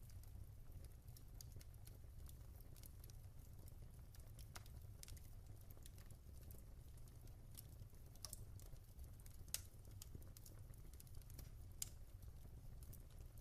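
Wood fire crackling in a fireplace: many small, irregular crackles and ticks, with two sharper pops in the second half, over a low steady rumble of flames.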